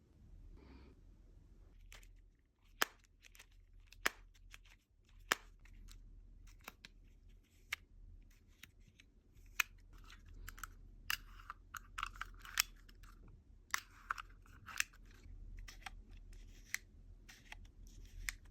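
Irregular sharp plastic clicks and snaps, with short scraping and rustling sounds, from a Nokia mobile phone being handled.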